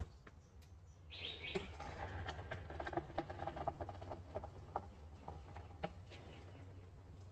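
A soap-soaked sponge being squeezed, giving a wet crackling squelch of small popping ticks that starts about a second in and eases off after about four seconds. Birds chirp in the background.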